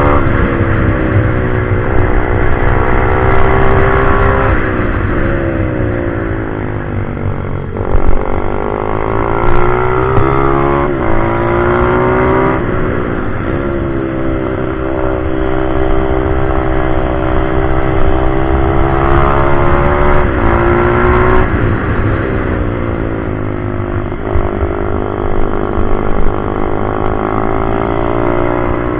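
A pit bike's small single-cylinder engine run hard. Its pitch climbs under acceleration, falls sharply on gear changes and off the throttle, then climbs again, over and over.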